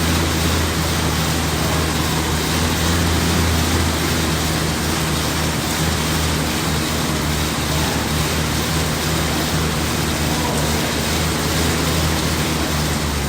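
Steady loud rushing noise with a constant low hum underneath.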